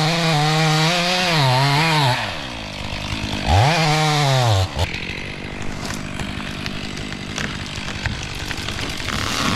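Chainsaw running with its pitch wavering under changing throttle, revved up and let back down about four seconds in, then running quieter for the rest.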